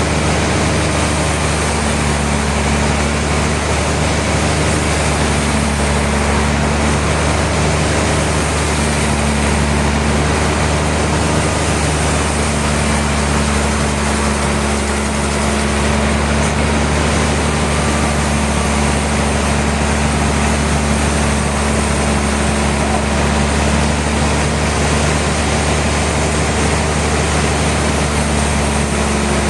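Sawmill machinery running steadily: a constant low engine-like hum under a dense, even mechanical noise.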